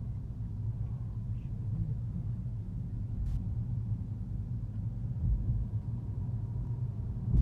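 A steady low rumble, with a faint click about three seconds in.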